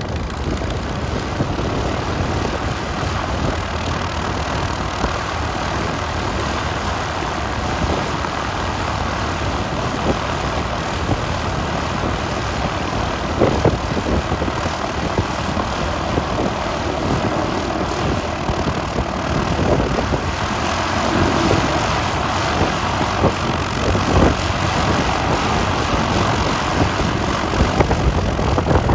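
Small propeller airplane's engine running steadily, with a few brief louder spikes.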